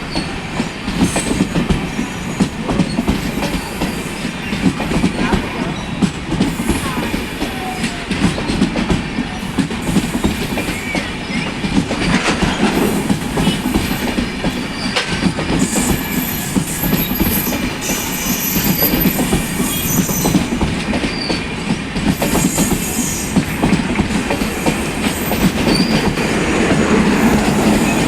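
Express passenger train's coaches rolling past on departure: a steady rumble with the rhythmic clickety-clack of wheels over rail joints. Thin, high wheel squeal comes in briefly about two-thirds of the way through.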